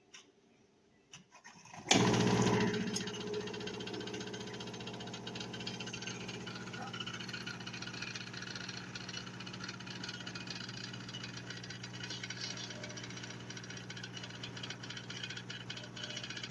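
De'Longhi TrueBrew coffee maker starting up about two seconds in with a sudden loud onset, then running steadily with a motor hum and a rattle, as in a brew cycle.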